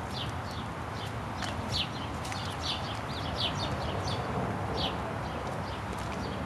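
Small birds chirping: short, falling high notes at irregular intervals, sometimes several in quick succession, over a steady low background rumble.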